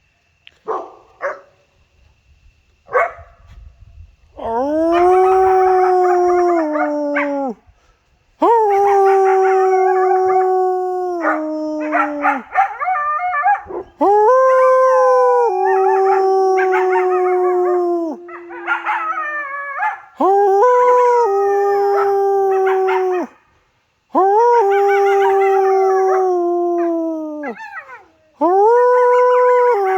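Dog howling loud and close: a few short barks, then six long howls, each held at a steady pitch for a few seconds and dropping away at the end, raised at coyotes nearby.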